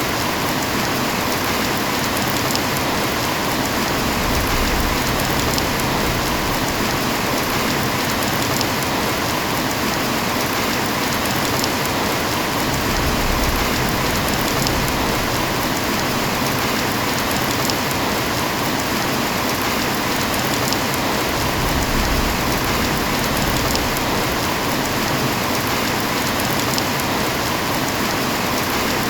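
Heavy rain falling steadily, a dense even hiss with fine drop patter on surfaces.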